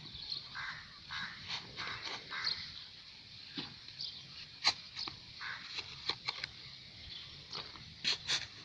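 Birds calling in short, irregular chirps over a faint steady background.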